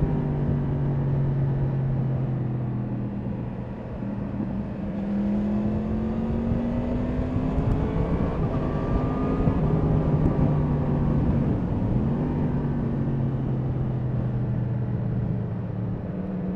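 Yamaha MT-10 SP's crossplane inline-four engine running under way, its pitch climbing steadily through the middle and then dropping in a few steps as the throttle and gears change, over a steady rush of wind and road noise.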